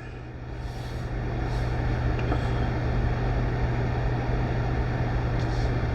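Steady low rumble with a continuous hum, growing a little louder over the first couple of seconds and then holding steady.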